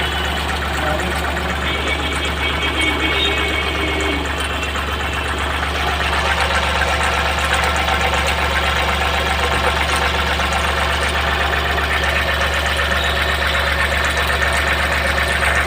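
Ashok Leyland Dost's three-cylinder diesel engine idling steadily with its diesel clatter, running properly after its cylinder head was opened and its cam and crank timing reset to cure a noise fault.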